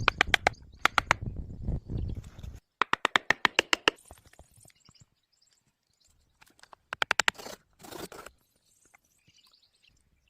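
Several short runs of rapid, sharp tapping, about a dozen taps a second, with a low rumble under the first two and a half seconds that stops abruptly.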